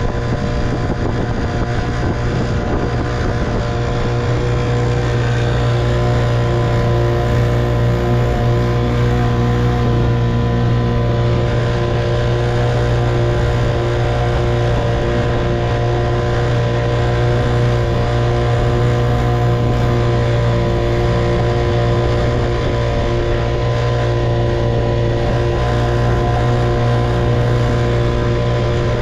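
1958 Evinrude 3 hp two-stroke outboard motor running at a steady speed, a little louder after about five seconds.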